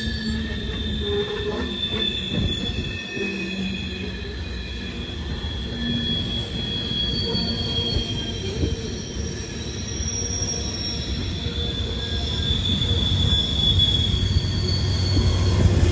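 Freight train cars rolling past, their wheels squealing in several high, wavering tones over a steady rumble.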